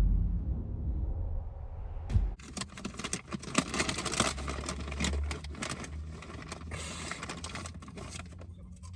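Low steady rumble of a car cabin on the move, then, after about two seconds, a sudden change to a run of crackling, clicking and rustling noises.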